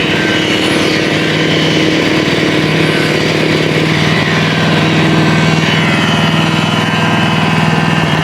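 Engine of construction machinery on a concrete slab pour running steadily at one constant speed.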